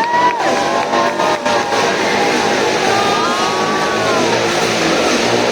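Motorcycle engine revving in a motorcycle globe-of-death act, its pitch swelling up and falling back again and again. A few sharp clicks come in the first second and a half.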